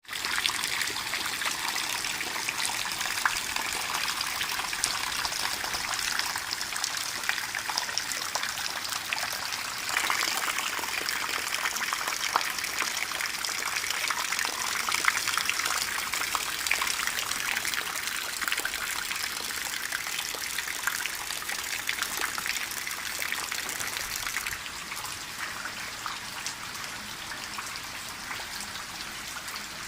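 Steady rainfall: a continuous hiss of falling water dotted with many separate drop splashes. It gets abruptly louder about ten seconds in and thins out around twenty-five seconds.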